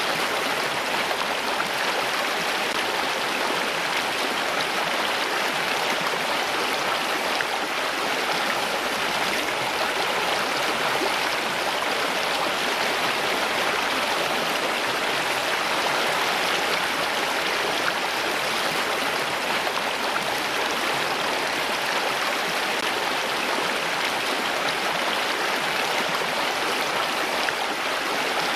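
Running water flowing in a steady, even rush, with no breaks or separate drips.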